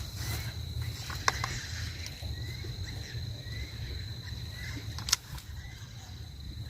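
Night outdoor ambience: a steady low rumble and a thin steady high-pitched whine, with faint short rising chirps repeating in the middle. Two sharp clicks stand out, one near the start and a louder one about five seconds in.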